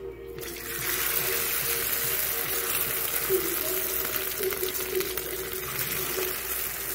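Omelette frying in hot oil in a small pan: a steady, loud sizzle that starts suddenly about half a second in.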